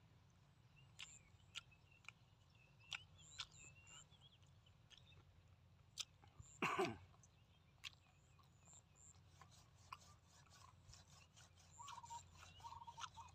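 Faint chewing and small mouth clicks from a man eating braised pork with his mouth closed. One louder mouth sound with a falling pitch comes about seven seconds in.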